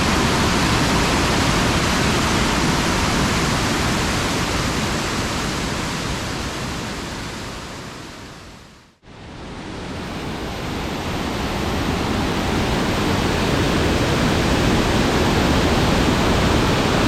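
Waterfall in full flow, a loud, steady rushing roar, running high after recent rain. It fades out about halfway through and then fades back in.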